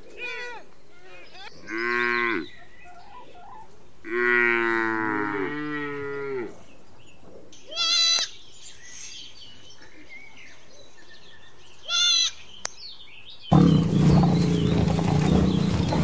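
Cattle mooing: a short moo about two seconds in, then a longer, drawn-out moo from about four to six and a half seconds. Two short high bleats follow, around eight and twelve seconds, from goats. A loud, rough rumbling noise sets in near the end.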